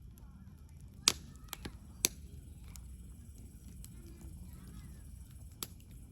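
Campfire wood crackling: a few sharp pops, the loudest about a second and two seconds in and another near the end, over a low steady rumble.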